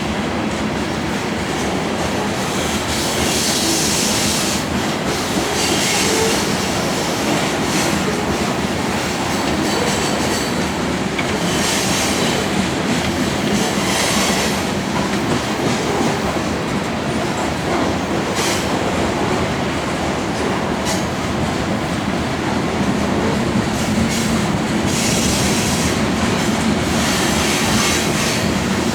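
Freight train of grain hopper cars rolling past steadily, with wheels clicking over the rail joints and flanges squealing now and then.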